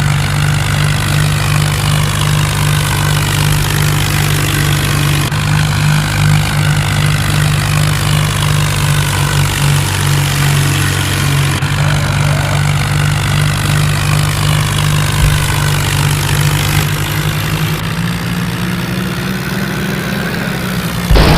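Tractor's diesel engine running steadily while pulling a load, its note rising slightly near the end.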